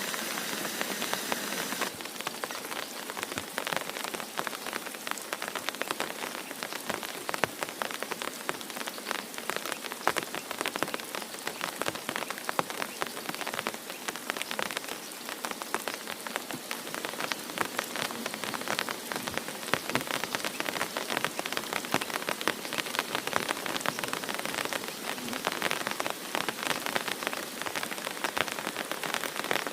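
Heavy rain falling, with a dense, continuous spatter of countless drop strikes on a surface. In the first two seconds there is a smoother, steady hiss before the texture changes.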